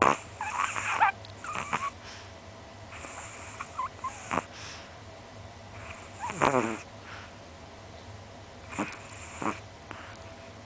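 Chihuahua snoring in its sleep: a series of short snores and breaths at uneven intervals, the longest and loudest about six and a half seconds in.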